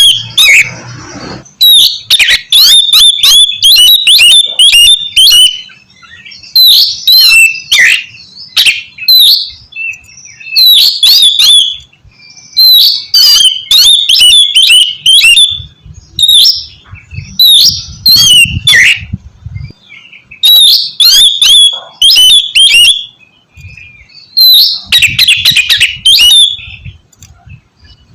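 Oriental magpie-robin (kacer) singing loudly in repeated bursts of fast, varied whistles and harsh chatter, each phrase lasting a second or two with short pauses between.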